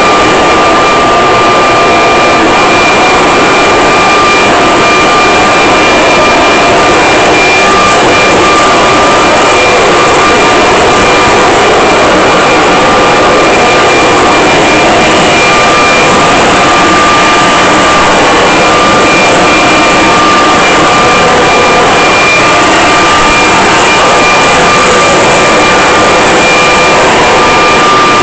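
Leaf blower running steadily and loud: a rush of air with a steady high-pitched whine.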